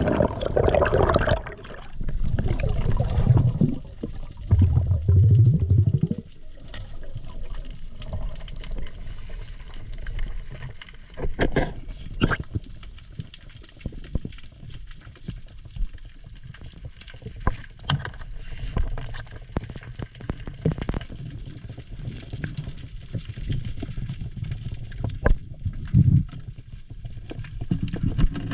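Water sounds: loud gurgling and sloshing in the first six seconds, then a quieter steady wash broken by scattered sharp clicks.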